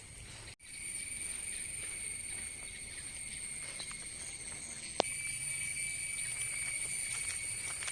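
Steady high-pitched drone of insects, a cricket or cicada chorus. It drops out for an instant about half a second in, and there is a single sharp click about five seconds in.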